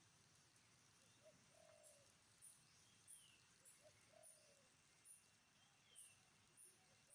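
Faint bird calls: short, low, arched cooing notes repeated about every second, with brief high chirps in between and an occasional falling whistle.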